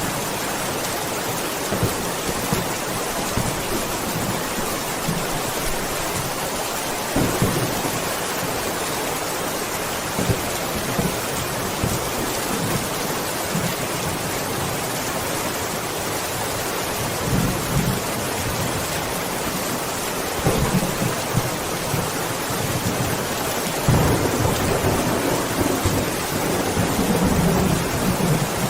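Steady rain with thunder rumbling low several times, the longest rumble near the end.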